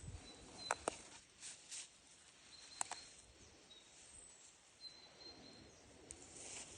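Quiet outdoor nature ambience with faint short high bird chirps over a steady thin high tone, broken by a few sharp clicks about a second in and again near three seconds.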